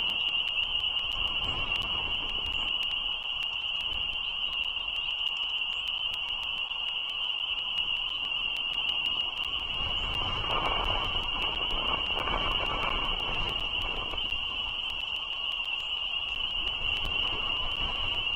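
A steady high-pitched ringing tone holds throughout, over a low rumble of passing road traffic that grows louder about ten to thirteen seconds in.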